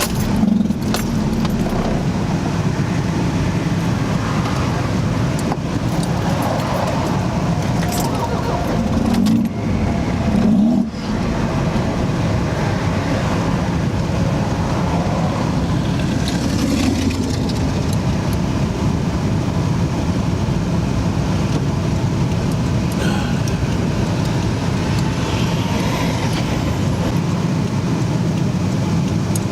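Loud engine and road noise inside the cabin of a 1991 Toyota MR2 running a turbocharged 3S-GTE with an open downpipe, driven at highway speed. The sound changes briefly and dips about ten seconds in, then goes on steadily.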